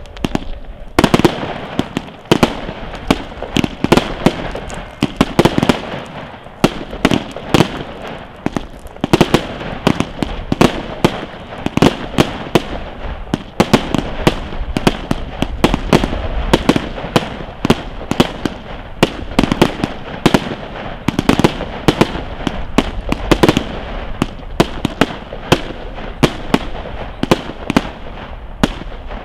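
Fireworks display firing continuously: many sharp bangs at an uneven pace, roughly two a second, as shells and cake shots burst, over a steady hiss of launches.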